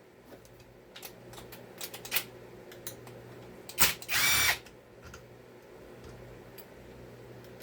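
A power drill spinning in one short burst a little after four seconds in, with a click just before it and light clicks of handling around it.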